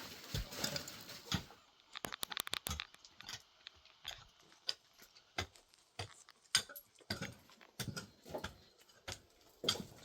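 Irregular light clicks and knocks, several a second, some sharper and louder than others, with no steady sound beneath them.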